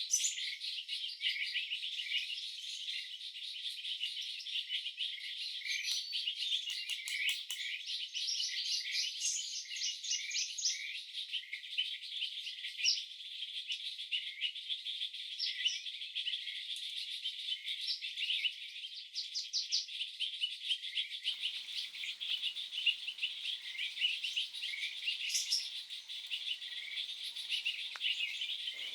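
A dense chorus of high, rapid chirps and trills from birds and insects, with many calls overlapping and none standing out for long.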